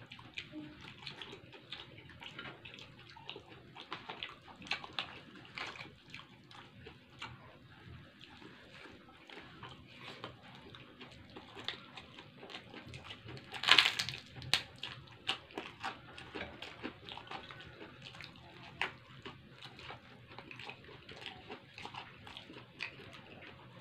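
Close-up eating sounds: wet chewing and lip smacks as rice with vegetables and peanut sauce is eaten by hand, a steady scatter of small clicks. One louder, sharper burst comes about 14 s in.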